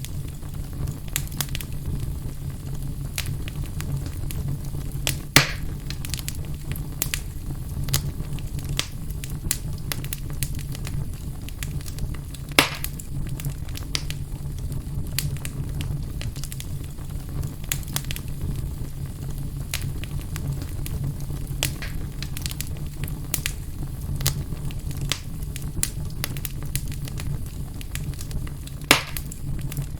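Wood fire in a fireplace crackling steadily over a low rumble, with three louder pops.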